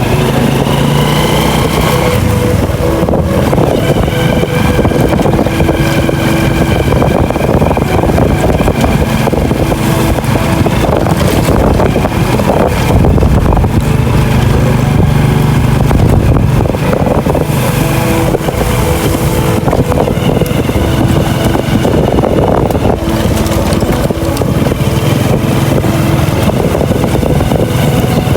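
A small engine running steadily under heavy, rough wind-and-rain noise on the microphone, its pitch lines fading in and out.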